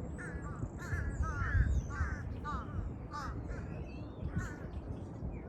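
Crows cawing over and over in quick series, with smaller birds chirping and whistling higher up, over a low rumble.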